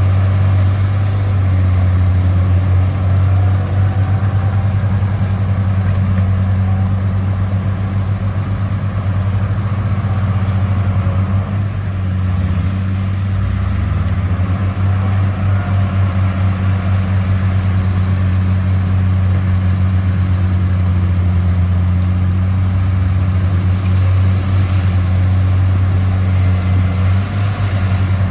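Heavy bulldozer diesel engine running steadily, a deep even drone.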